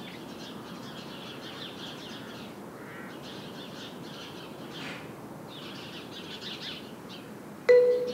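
Quiet outdoor ambience of steady hiss with small birds chirping faintly here and there. Near the end a sustained musical note comes in.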